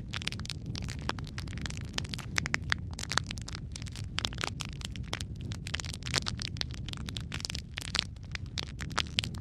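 Burning logs in a fireplace crackling and popping, many sharp irregular snaps over a steady low rumble of the flames.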